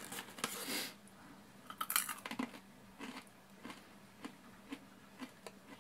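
Someone biting and chewing crunchy chili-coated green peas: a short rustle at the start, a crisp bite about two seconds in, then small crunches about twice a second.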